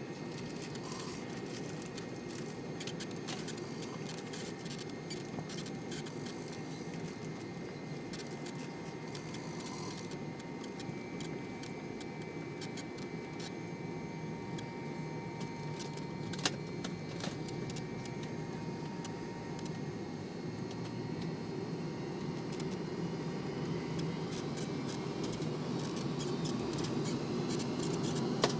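McDonnell Douglas MD-88 airliner with its rear-mounted Pratt & Whitney JT8D turbofans running at low power, a steady rumble with faint whines and small rattles and clicks. The sound grows gradually louder over the last few seconds.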